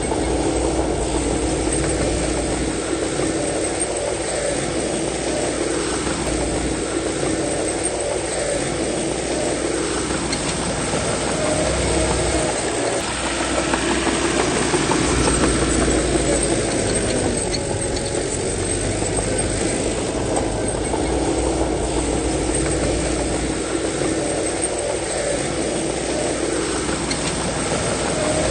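Bulldozer's heavy diesel engine running continuously, its pitch sinking and rising again several times as the machine works.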